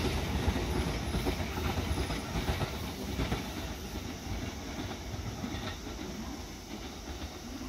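JR West electric commuter train running past and away. Its low rumble fades steadily, with a few wheel clacks over rail joints in the first few seconds.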